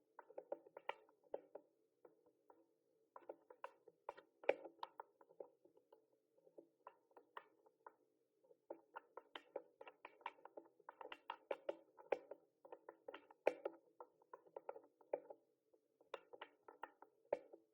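Mechanical keyboard keys clacking as someone types in uneven bursts, many keystrokes a second, broken by short pauses.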